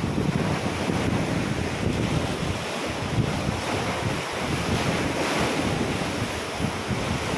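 Ocean waves splashing and washing in, with wind buffeting the microphone. The surf swells a little about five seconds in.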